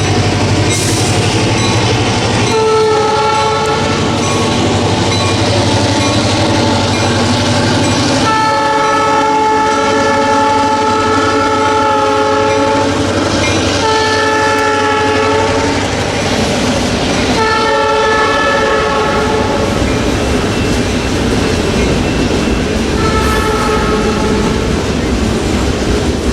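A diesel freight locomotive's multi-chime horn sounds five blasts: two long, then three shorter, with the locomotive's engine running underneath. Its wheels then rumble and clack over the rail joints as the train passes.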